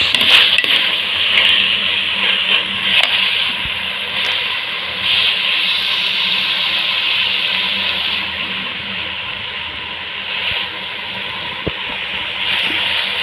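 Mixed vegetables sizzling in hot oil in a pan, a steady hiss, with a few clicks of a spoon against the pan as mashed potato is spooned in.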